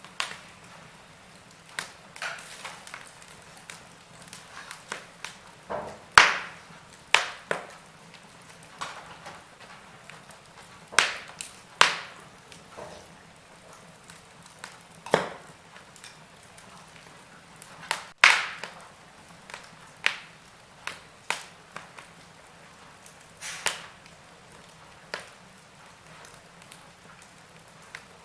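Wood fire crackling in a fireplace: irregular sharp pops and snaps of burning wood over a faint steady hiss, with a few much louder snaps.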